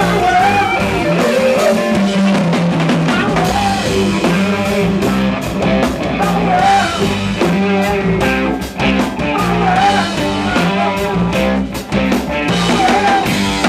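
Live rock band playing loudly: electric guitar and bass over a drum kit, with regular drum and cymbal hits.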